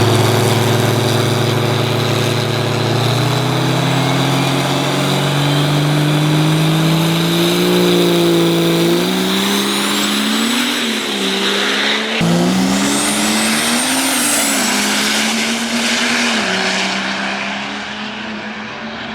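Diesel drag-racing truck engine running hard on a pass, its pitch climbing steadily for several seconds and then wavering up and down, with a sudden jump in the sound about twelve seconds in.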